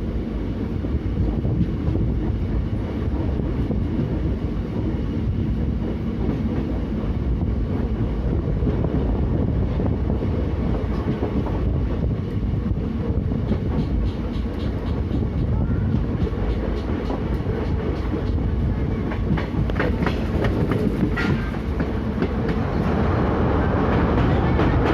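A train running on the rails with a steady low rumble, and its wheels clicking over rail joints through the middle of the stretch.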